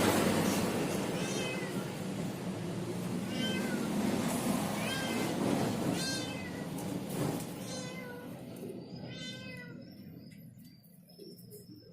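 A cat meowing repeatedly, about six short meows a second or two apart, over a steady background noise that fades out near the end.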